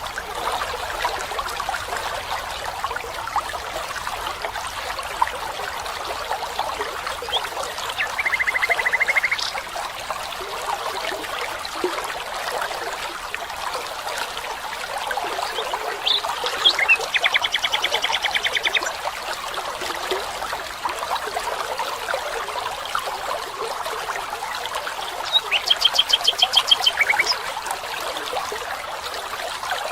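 Steady trickling of running water, a small stream, with three short, rapid trilled calls from an animal rising above it, about a third of the way in, past the middle, and near the end.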